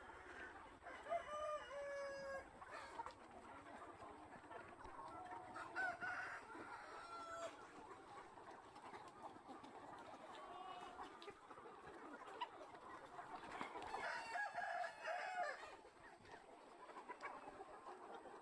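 A flock of farm chickens clucking and calling, fairly faint, with longer calls about a second in, around six seconds in, and again near the end.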